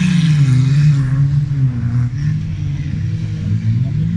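Banger-race car engines revving, their pitch rising and falling repeatedly.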